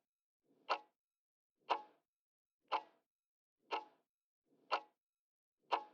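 Clock-style tick sound effect of a quiz countdown timer, ticking steadily once a second, six ticks in all.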